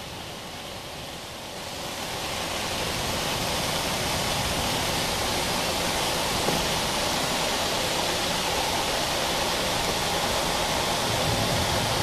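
Heavy thunderstorm rain pouring down, swelling over the first few seconds to a steady downpour.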